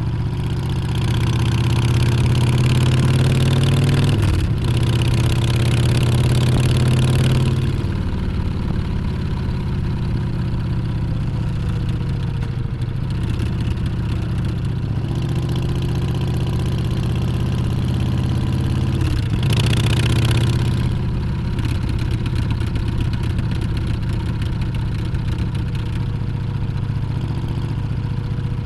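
Harley-Davidson Street Bob's Milwaukee-Eight V-twin engine under way: it pulls up in pitch, shifts gear about four seconds in and pulls again, then runs steadily. It climbs once more to a second shift about nineteen seconds in, then eases off and runs on more quietly.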